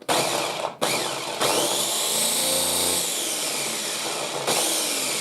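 Small Ninja electric chopper motor blending a batch of cooked pinto beans into refried beans, run in a few pulses and then held for several seconds, its pitch wavering as it works through the beans.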